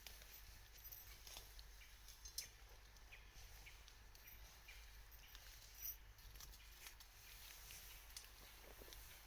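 Wood campfire crackling faintly: sparse small pops and clicks, one sharper pop about two and a half seconds in and another near six seconds, over a faint steady hiss.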